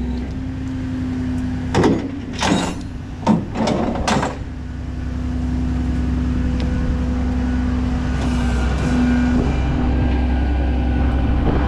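A truck engine running steadily, with four short sharp noises in the first few seconds; the engine grows louder about five seconds in and holds there.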